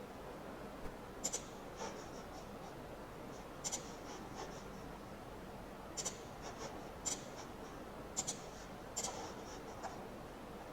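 Computer mouse clicking as files are picked and placed: short sharp clicks, mostly in quick pairs, every second or two over faint room hiss.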